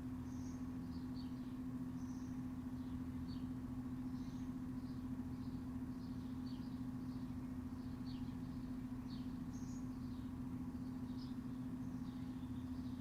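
Small birds chirping in short, high, falling chirps, one or two a second, over a steady low hum.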